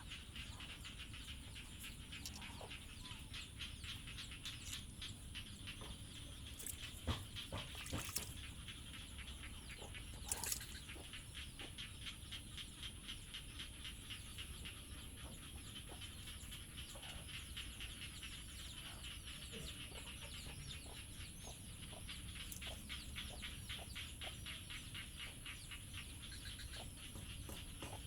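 Faint outdoor ambience from animal calls: a continuous fast pulsing chirr and a steady high whine, with a few sharp clicks about a third of the way in.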